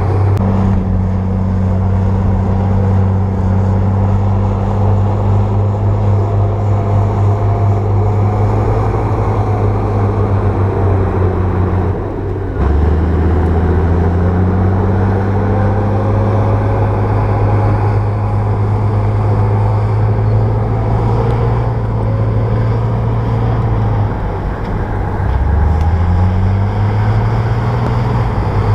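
Crawler bulldozer's diesel engine running steadily under load. The engine note dips briefly about 12 seconds in and again near 24 seconds, then climbs each time as it revs back up.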